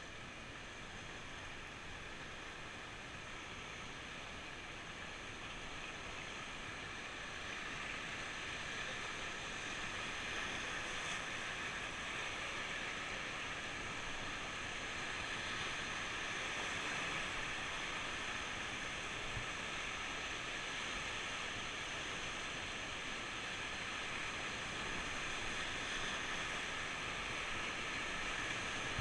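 Rushing river water, a steady hiss that grows gradually louder about a quarter of the way in.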